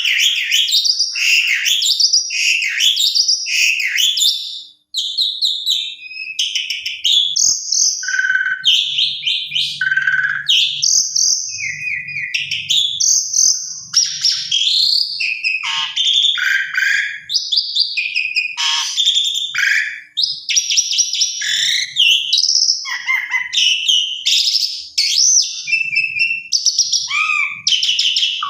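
Asian pied starling (jalak suren) singing a long, unbroken song of rapid, varied whistles, chattering and squeaky gliding notes. It is a lure song, played to make other pied starlings answer.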